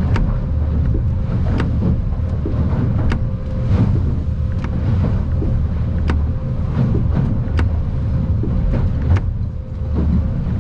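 Stabicraft 2050 Supercab aluminium boat underway in rough water: a loud, steady low rumble of motor and hull, with sharp knocks and clicks at irregular intervals, about one every second or so.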